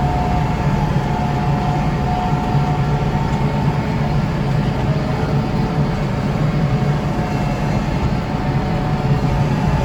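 Kubota tractor's diesel engine and front-mounted snow blower running steadily under load, a continuous low drone with a faint steady whine above it.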